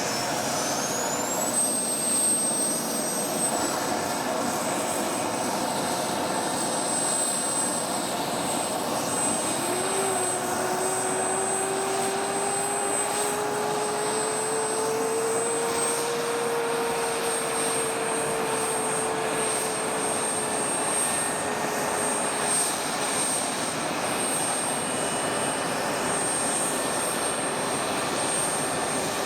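F-15 fighter's twin Pratt & Whitney F100 turbofan engines running on the ground. A high jet whine climbs in pitch over the first second or two and then holds steady over a continuous rushing roar.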